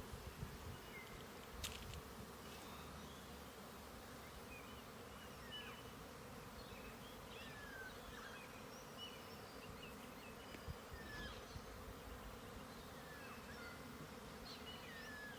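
Honeybee swarm buzzing: a steady hum of many bees' wings.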